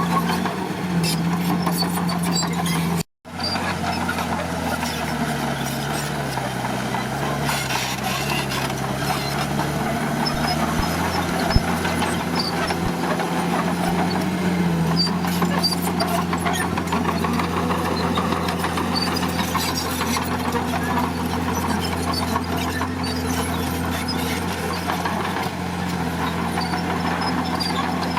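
Crawler bulldozer's diesel engine running steadily; its pitch sags for a few seconds and then comes back up. The sound cuts out for an instant about three seconds in, and there is a single sharp click near the middle.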